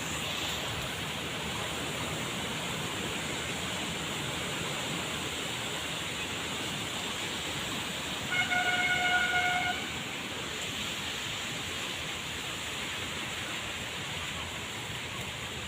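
Steady rushing noise with a single steady horn blast, lasting about a second, a little past the middle.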